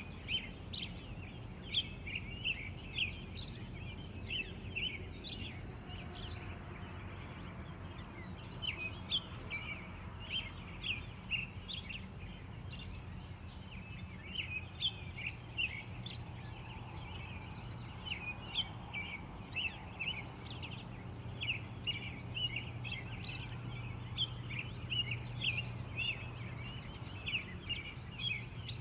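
Dawn chorus of wild birds: many short chirps and song phrases overlapping without pause, over a steady high-pitched drone and a low hum.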